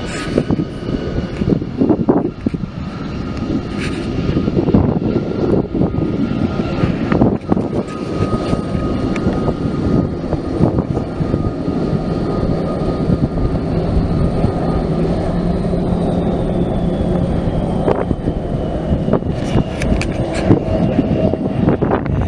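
Airplane engines running loud and steady as an aircraft passes. A high whine slowly falls in pitch over the last several seconds.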